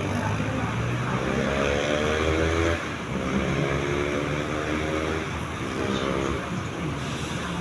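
Diesel locomotive engine running, its pitch swelling up and down several times as the engine speed changes.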